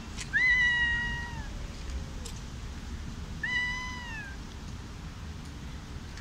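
Stray tabby cat giving two long, drawn-out meows, each about a second long and holding one pitch before dropping off at the end, about three seconds apart.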